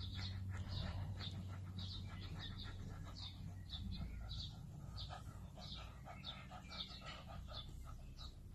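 A small bird chirping in a steady repeated pattern, about two short high calls a second, over a pug's quick breathing close by.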